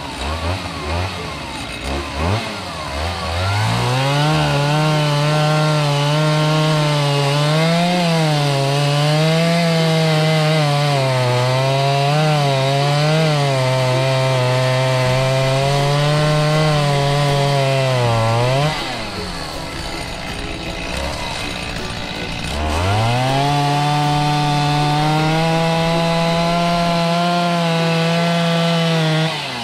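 Stihl MS 290 Farm Boss two-stroke chainsaw cutting wood at full throttle, its pitch wavering as the chain bites. It revs up from idle about 3 s in, drops back to idle for a few seconds around the 19 s mark, then revs and cuts again until it falls to idle near the end.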